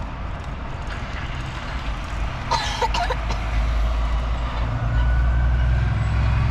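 Heavy trucks driving past with a low diesel rumble that grows louder in the second half as one comes closer. A brief cluster of higher-pitched sounds cuts in about two and a half seconds in.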